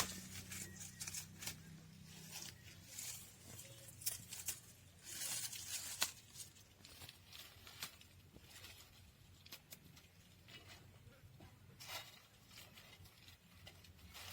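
Mint leaves frying in hot oil, with a faint irregular sizzling crackle and a denser burst of sizzle about five seconds in.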